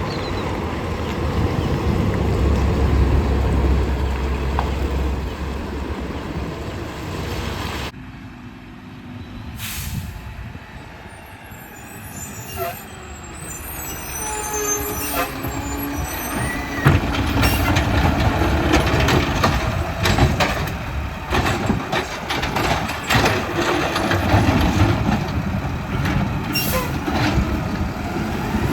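Garbage trucks at work. A diesel engine runs with a steady low rumble for the first several seconds, then the sound changes suddenly to short air-brake hisses and a run of clanks and knocks from the truck's working gear.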